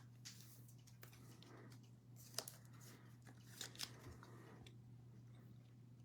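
Near silence with a steady low hum and a few faint clicks and rustles of trading cards being handled: one sharper click about two and a half seconds in and two close together just before four seconds.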